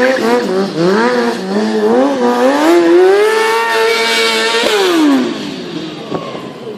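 Superbike engine revved in quick throttle blips. The revs then climb and hold high for a couple of seconds before the throttle is shut and the engine note falls away.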